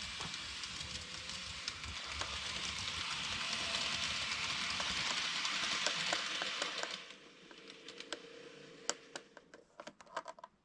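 N gauge model train running along the track, its motor and wheels making a steady whirring rush that builds, then drops away about seven seconds in, followed by a run of light clicks.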